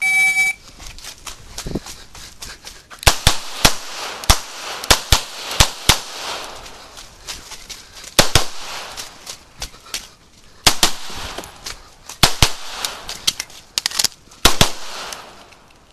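An electronic shot timer beeps once, then a CZ Shadow 2 9mm pistol is fired in quick pairs and strings of shots from about three seconds in, each shot ringing out across the range. The string pauses briefly between groups of shots.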